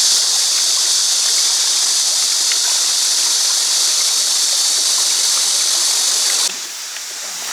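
Valley stream water rushing in a steady, even noise. It cuts off abruptly near the end, giving way to a quieter steady hiss.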